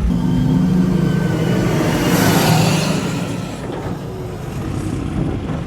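Old Kenworth truck's diesel engine running under a heavy load, about 50 tons, as a steady low drone. A louder rush of noise swells about two seconds in and fades by about three and a half seconds.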